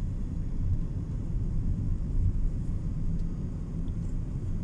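A car's engine and tyres giving a low, steady rumble, heard from inside the cabin while driving.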